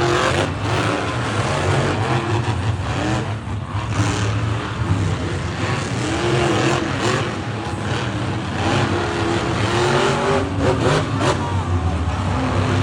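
Monster truck engine running loudly, its revs rising and falling.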